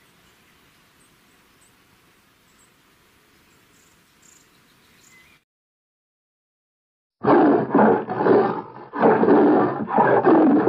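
Big cat roaring loudly in a series of long, rough roars, starting about seven seconds in, after faint outdoor background with a few bird chirps and a short silence.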